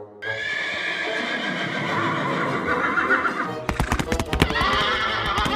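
A drawn-out animal-like call, then a quick, irregular run of sharp knocks starting about two-thirds of the way in.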